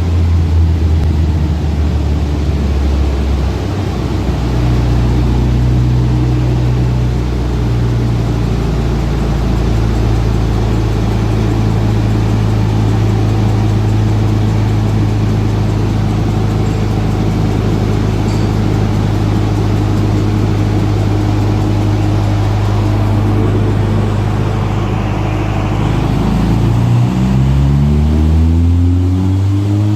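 Turbocharged FJ20ET four-cylinder engine of a Nissan 280ZX running at a steady speed. A little over 26 seconds in, the pitch dips and then climbs as the engine revs up under acceleration.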